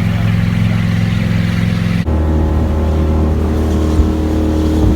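A vehicle engine running steadily, a loud low drone, which cuts abruptly about two seconds in to a different steady engine drone.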